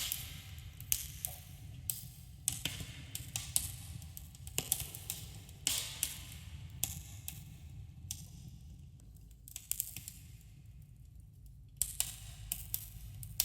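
Wood campfire crackling, with irregular sharp pops and snaps over a low steady rumble, echoing slightly in a cave. The crackling thins out for a few seconds past the middle, then picks up again near the end.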